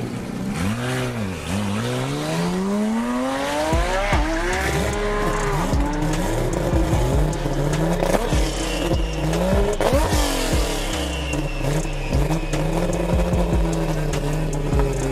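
Toyota Supra's engine revved repeatedly while the car stands still, its pitch swinging up and down. Background music with a steady bass runs under it from about four seconds in.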